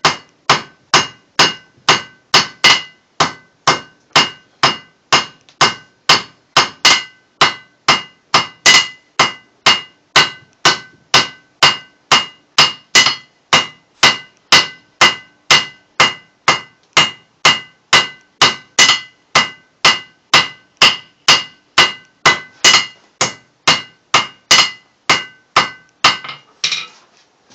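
Blacksmith's hammer striking hot steel on an anvil at a steady pace of about two blows a second, each blow leaving a bright metallic ring from the anvil. The hammering stops shortly before the end.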